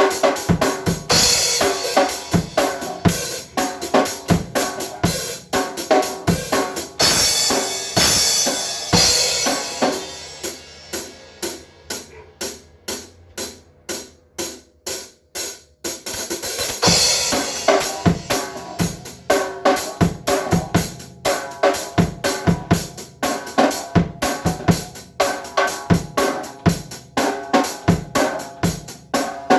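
Drum kit played with a steady beat of kick, snare and hi-hat, with crashing cymbals in the first half. Around the middle it drops back to a quieter run of evenly spaced single strokes before the full beat comes back.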